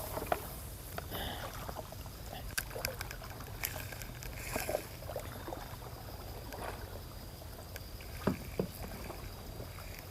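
Waterside background of a steady low rumble and faint trickling water, with scattered light clicks and taps of fishing tackle being handled; the loudest taps come right at the start and about eight seconds in.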